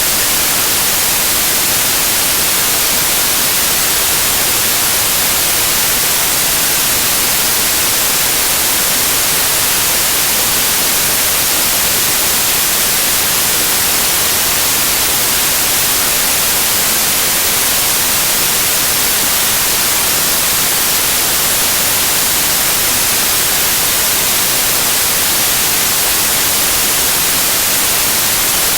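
Loud, steady white noise: an even hiss, strongest in the treble, that does not change.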